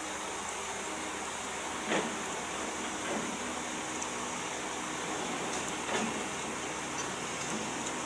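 Excavator engine running steadily with an even hum, with a couple of faint clicks about two seconds in and again around six seconds.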